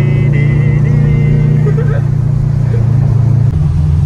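Subaru Impreza's flat-four engine running steadily under way, heard from inside the cabin. About three and a half seconds in the level briefly dips and the engine note changes.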